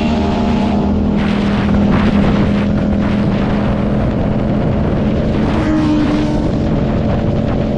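Motorcycle engine running at fairly steady revs, with gusts of noise over it.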